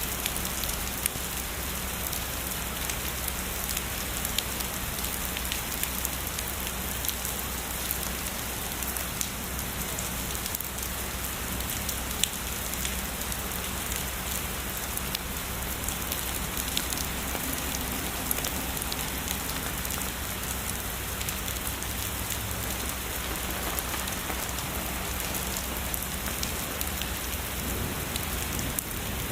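Steady heavy rain falling on a surface, a dense even hiss with many small drop ticks scattered through it.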